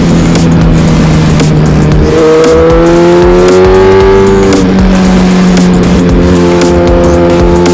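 Suzuki GSX-R1000R's inline-four engine running on the road, its revs climbing for a couple of seconds then dropping back sharply about halfway through, before holding steady.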